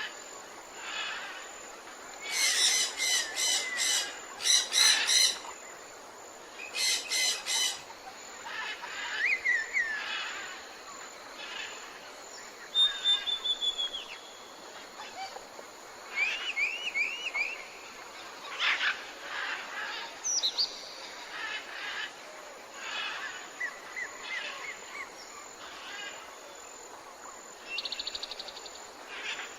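Several forest birds calling and singing: a loud, rapid, rattling call comes in two bouts in the first eight seconds, followed by scattered chirps, short trills and rising and falling whistles over a faint steady hiss.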